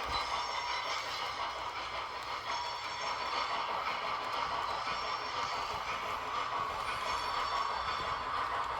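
H0-scale model train running steadily on the track: an even running noise of wheels rolling on rail and a motor whirring.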